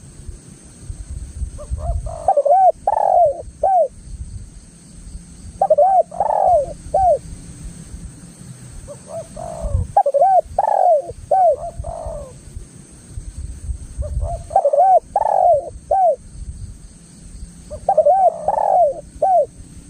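Spotted dove (tekukur) cooing: phrases of several short, arched coos, repeated about every four seconds, five phrases in all.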